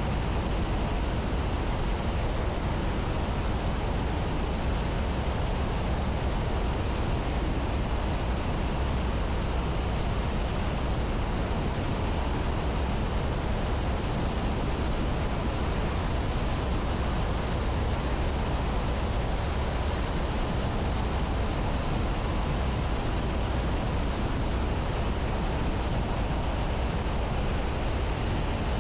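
Piper Archer PA-28-180's four-cylinder Lycoming engine and propeller running at a steady drone, heard from inside the cockpit on final approach.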